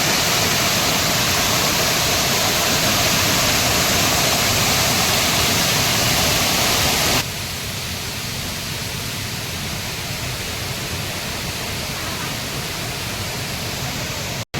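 Waterfall rushing, a steady roar of falling water. About halfway through it drops suddenly to a quieter, thinner rush, and it cuts out for an instant just before the end.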